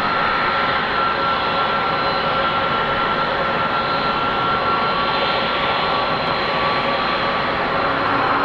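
Jet engines of a Boeing 747-400 freighter running: a steady, loud jet roar with high whining tones over it.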